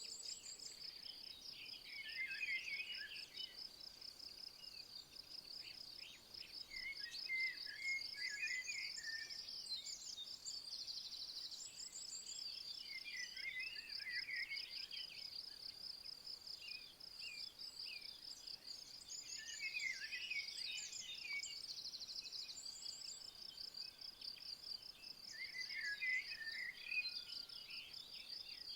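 Insects trilling in a steady, high-pitched rapid pulse, with a songbird singing a short, warbled phrase about every five to six seconds.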